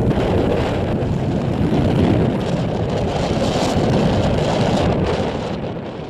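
Steady rumble of strong wind buffeting the microphone, mixed with the jet noise of a departing Boeing 737 MAX 8's CFM LEAP-1B engines, fading near the end.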